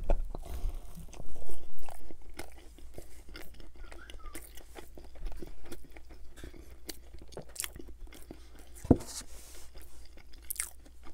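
Close-miked biting and chewing of crispy fried Chinese takeout food: a dense crackle of small crunches and wet mouth clicks, loudest in the first couple of seconds. A single dull thump comes about nine seconds in.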